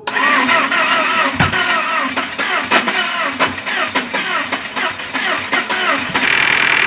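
VW Passat B5's 1.8 20-valve four-cylinder engine being cranked over by the starter, a rhythmic cranking for about six seconds, then catching and settling into a steady run near the end. This is the first start after the hydraulic lifters were recharged and refitted.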